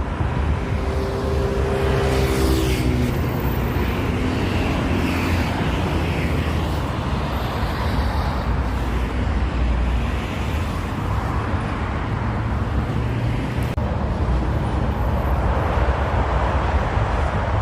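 Steady motor-vehicle rumble of road traffic, with a short whine falling in pitch about one to three seconds in.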